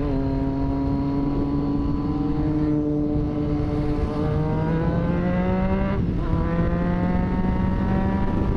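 Motorcycle engine under way, heard from the bike itself over wind rush: it runs steady, then pulls up in pitch for a couple of seconds, dips briefly about six seconds in, as at a gear change, and carries on steady.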